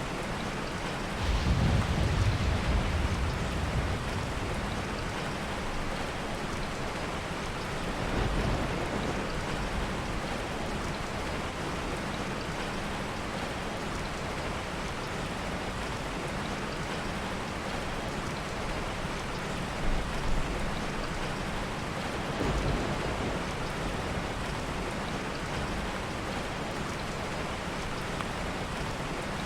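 Steady heavy rain with soft rolls of thunder: the loudest rumble comes about a second in and lasts a couple of seconds, with fainter ones around a third of the way through and again about two thirds in.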